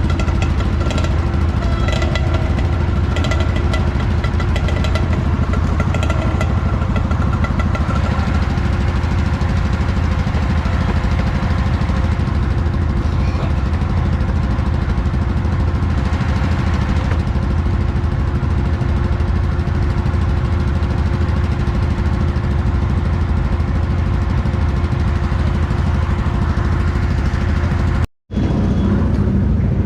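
Off-road vehicle engine running steadily, a constant drone with a few steady tones over it. Near the end the sound drops out for an instant and comes back different.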